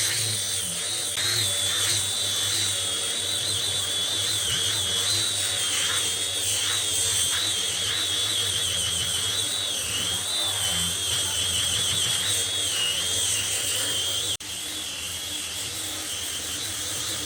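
Electric power tool running continuously, a high whine that wavers slightly in pitch over a hiss; it drops out for an instant about fourteen seconds in.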